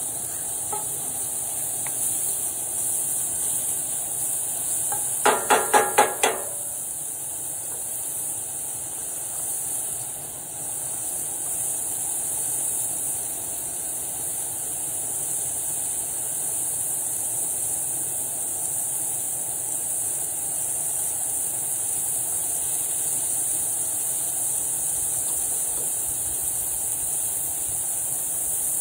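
Mushrooms and garlic sizzling steadily in oil in a cast iron skillet on a camp stove. About five seconds in, a quick run of five ringing clinks.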